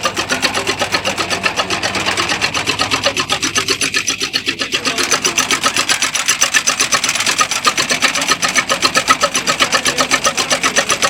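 A machine running with a fast, even mechanical clatter at about seven beats a second, steady throughout.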